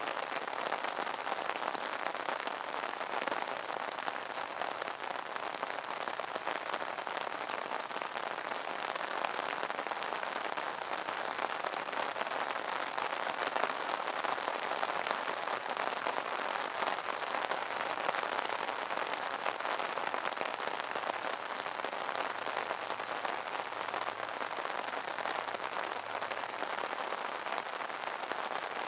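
Steady rain pattering on an umbrella canopy: a dense, even spatter of drops with no let-up.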